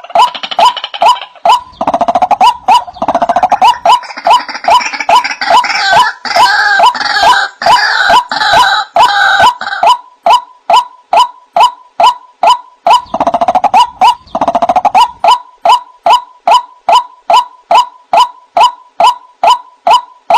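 White-breasted waterhen calling: a steady string of short 'wak' notes, about two and a half a second. Bouts of harsher, rapid croaking chatter lie over them through roughly the first half and again briefly later on.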